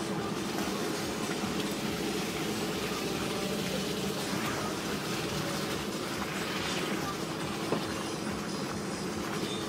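Car engine running steadily at low speed, heard from inside the cabin while driving along a rough dirt track, with one short knock about three-quarters of the way through.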